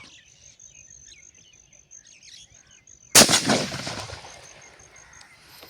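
A single shotgun shot about three seconds in, its report echoing away over about a second. Birds chirp faintly in the background.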